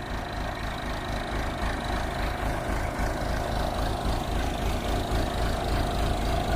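Backhoe engine running steadily with a constant hum, growing slightly louder as it goes.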